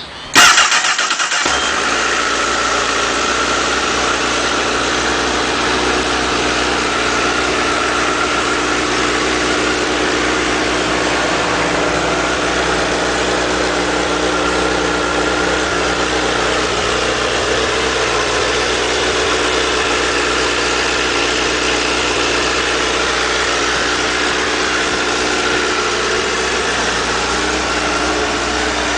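2008 Honda CBR1000RR Fireblade's inline-four engine starting with a sudden loud catch, then idling steadily.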